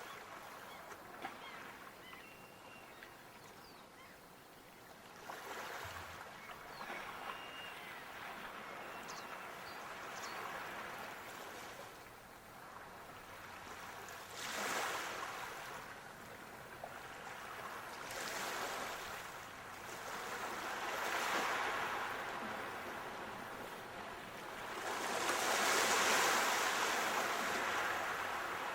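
Sea waves breaking and washing on a shore, each surge of hiss swelling and fading over a few seconds, the largest near the end.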